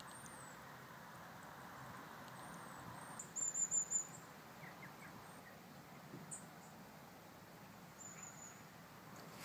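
Small bird calling with high, thin chirps, with a quick run of twittering notes about three seconds in and a shorter one near the end, over faint outdoor ambience.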